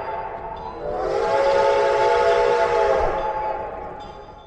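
Budd RDC rail diesel car's multi-chime air horn sounding a chord. A first blast cuts off just after the start, then a longer blast begins about a second in, holds for about two seconds and fades away.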